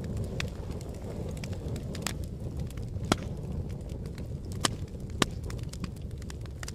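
Fire burning with a steady low roar and sharp, irregular crackles and pops, the loudest three about three, four and a half and five seconds in.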